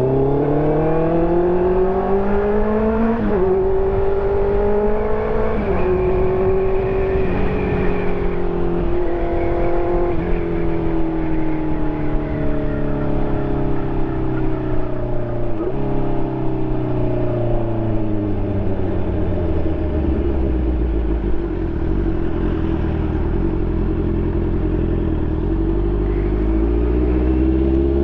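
2020 Honda CB650R's inline-four engine through an SC Project exhaust, under way. The revs rise and drop sharply with quick gear changes through the first ten seconds, then fall away for about ten seconds with a brief blip about halfway, run low and steady, and climb again near the end as it pulls away.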